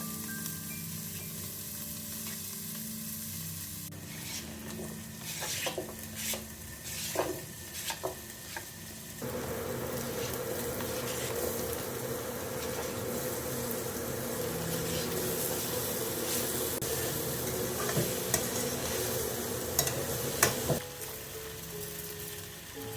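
Food sizzling in a frying pan, with utensil clicks and scrapes of stirring. The sizzle turns louder and steady about nine seconds in and cuts off sharply a couple of seconds before the end.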